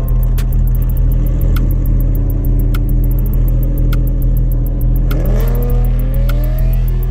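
A car engine revving: its pitch steps up, then climbs steeply about five seconds in and holds high. Loud bass-heavy music with a steady beat plays throughout.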